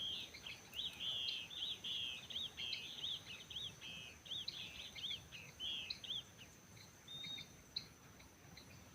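A songbird singing a fast run of short, arching chirps for about six and a half seconds, then only a few scattered notes, over a faint steady high-pitched whine.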